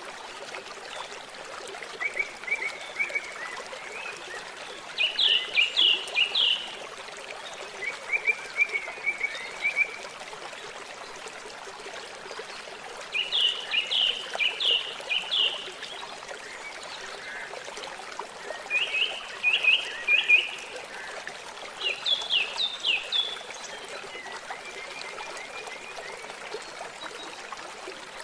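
Water trickling steadily. Over it, high chirping calls come every few seconds, each a quick run of four or five notes.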